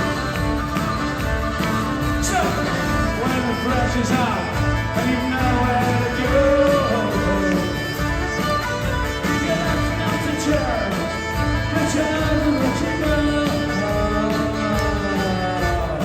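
A song performed live: singing with instrumental accompaniment, playing continuously.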